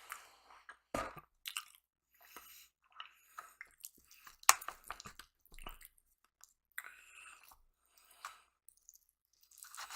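Close-up chewing and biting on breakfast food, wet mouth sounds in irregular bursts with a few sharper crunchy clicks, loudest about a second in and near the middle.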